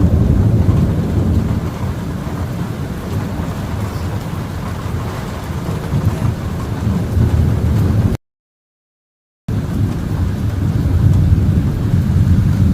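Thunderstorm: a continuous low rumble of thunder with rain. The sound cuts out completely for about a second past the middle, then resumes.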